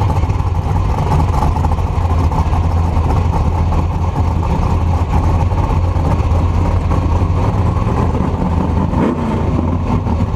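A vehicle engine running steadily with a low, even rumble and noise around it.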